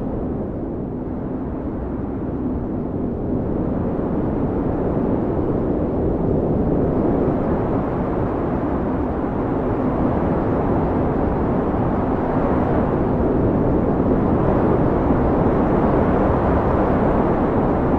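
Blizzard wind: a steady, low, rushing howl of storm wind that slowly grows stronger over the first dozen seconds.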